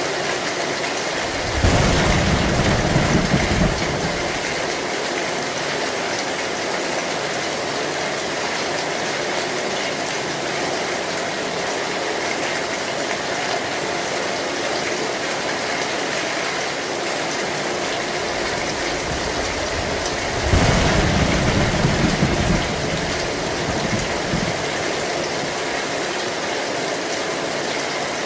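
Heavy rain beating steadily on an old zinc (corrugated metal) roof. Two low rumbles of thunder, each lasting about two seconds, swell up a couple of seconds in and again about three-quarters of the way through.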